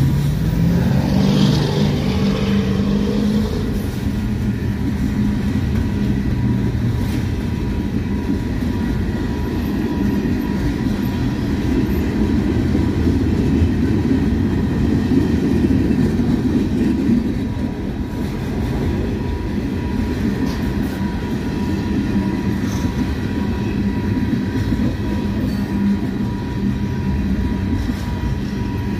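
Freight train cars rolling past at speed: a steady rumble of steel wheels on the rails, with some clickety-clack of wheels over rail joints.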